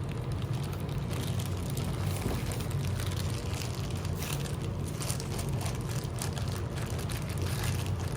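A steady low hum, with light scattered taps and rustles over it.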